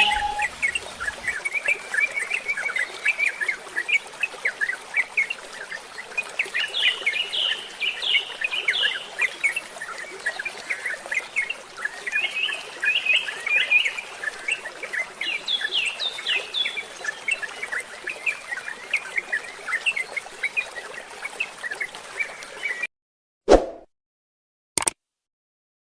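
Many small birds chirping and twittering in quick, overlapping calls over a steady background hiss. The sound cuts off near the end, leaving silence broken by two short knocks.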